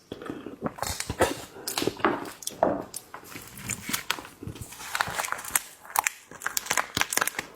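Close-miked eating of seafood: irregular crackling clicks and chewing as the shellfish is handled and bitten.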